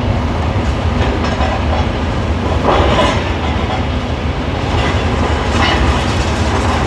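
Heavy demolition machinery running with a steady low rumble, with irregular clattering and crunching of debris, loudest about halfway through.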